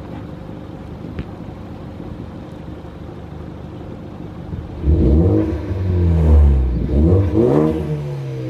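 Ford Focus ST engine idling steadily, then revved hard about five seconds in. The engine note climbs and falls several times in quick succession.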